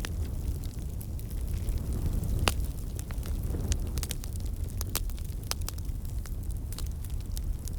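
Wood fire crackling in a fireplace: irregular sharp pops and snaps over a low steady rumble, with one louder pop about two and a half seconds in.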